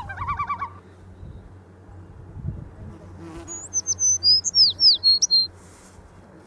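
Small songbird singing one brief phrase of high, thin whistled notes, several sweeping down in pitch, about halfway through; a short rapid chattering call comes at the start.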